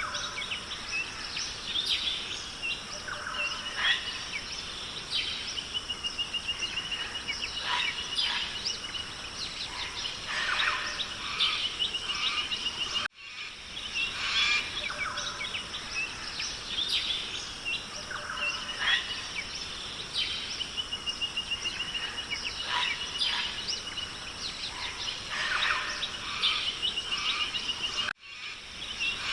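Tropical forest ambience: many birds calling and trilling over a steady high insect drone. It is a short loop that cuts out briefly and restarts about every fifteen seconds.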